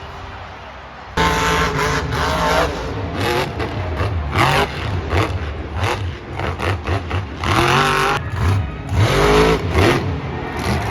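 Monster truck engine revving hard, starting suddenly about a second in, its pitch rising and falling again and again as the throttle is worked.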